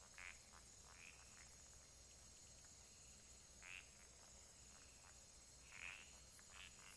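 Faint night chorus: insects chirring steadily at a high pitch, with short scattered frog calls every second or so, the loudest near the end.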